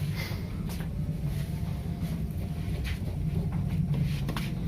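A steady low rumble with a few faint clicks and scrapes, from a plastic washing-machine inlet-hose fitting being handled.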